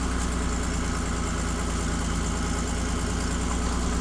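Car engine idling steadily while warming up after a cold start, its earlier slight miss having smoothed out.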